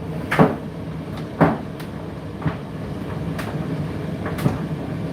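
Indesit IDC8T3 condenser tumble dryer running, its drum turning over a steady hum with a knock about once a second.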